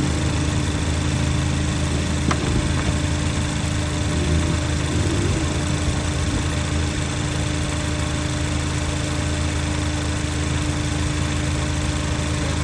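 Cadillac ATS engine idling steadily after a cooling-system repair, with one brief click a little over two seconds in.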